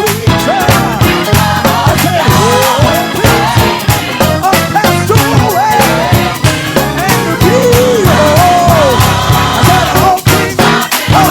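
Churchy gospel band playing an uptempo groove: drums, bass, organ and keyboards, with a lead melody line that slides and bends in pitch over the top.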